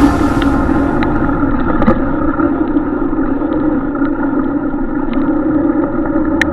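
Suzuki Max 100 two-stroke motorcycle engine running steadily, with a few short clicks over it.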